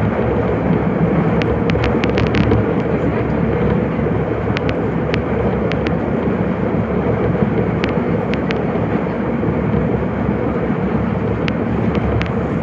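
Nagoya subway Higashiyama Line 5050-series train running between stations: a loud, steady rumble of wheels and running gear, with scattered sharp clicks in small clusters, several in quick succession about two seconds in.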